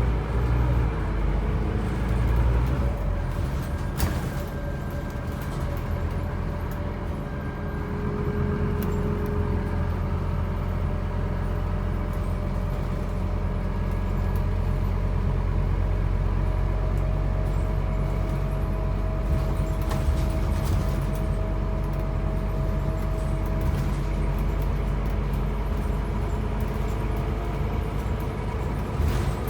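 Scania N270UB OmniCity bus's five-cylinder diesel engine running under way, a steady low drone with a drivetrain whine that rises slowly in pitch as the bus gathers speed. A short knock about four seconds in.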